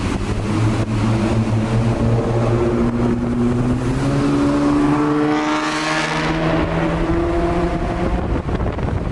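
Straight-piped third-generation Acura TL's V6 exhaust under a hard pull, its pitch climbing for a few seconds to a peak about six seconds in, then dropping back. Wind and road noise run underneath.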